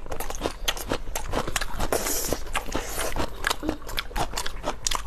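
Close-up crunchy chewing and biting of food, a dense run of irregular crisp crunches.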